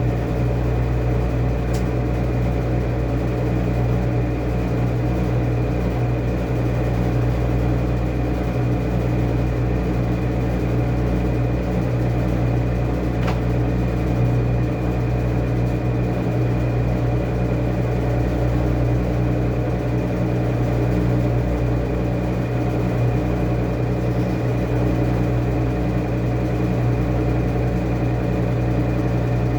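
Washing machine running steadily: a constant motor hum with a thin high whine over it, and an occasional faint tick.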